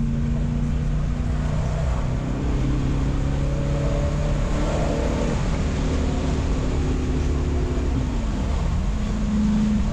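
Corvette V8 running under load, heard from inside the cabin as the car accelerates, with road noise underneath. Its pitch climbs through the middle, then the revs dip and pick up again just after eight seconds, as at a gear change.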